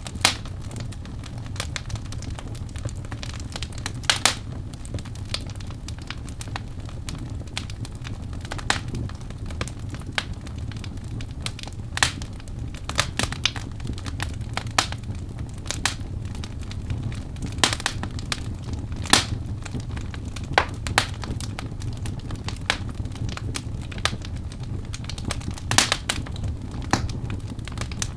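Wood fire burning in a fireplace: a steady low rumble of flames with irregular sharp crackles and pops from the burning logs, a few louder snaps among them.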